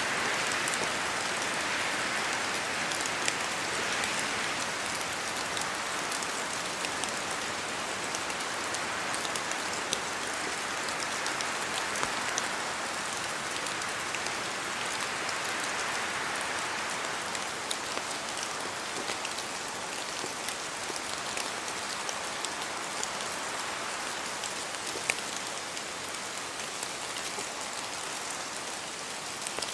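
Steady rain falling on forest trees, an even hiss that slowly swells and eases, with scattered sharper drops landing close by.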